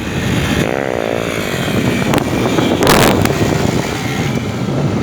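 Motorcycle engines running loudly, with one engine's pitch bending up and then down about a second in, and two short louder surges a little later.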